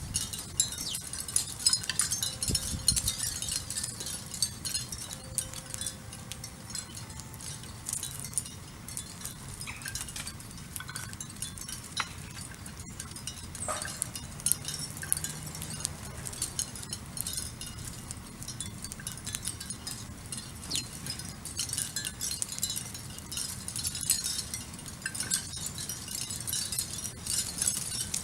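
Backyard ambience: soft chime-like tones, held for a second or so and sounding now and then, over many faint high chirps from small birds.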